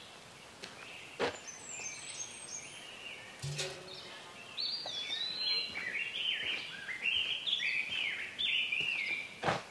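A songbird singing a quick run of short whistled notes, rising and falling, that grows busier about halfway through. A few sharp clicks stand out, one early, one in the middle and one near the end.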